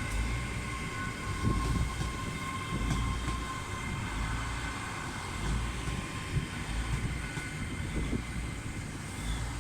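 Class 802 bi-mode train running slowly at the platform: a steady low rumble with a low thud about every second and a half, and a steady whine that fades a few seconds in.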